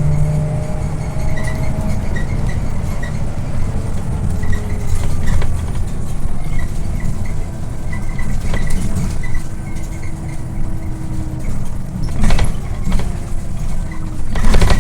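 Scania OmniLink I city bus on the move: a heavy low rumble of engine and road, with a faint drivetrain whine that drifts in pitch, light rattling and ticking of fittings, and two loud jolts, one about twelve seconds in and one near the end.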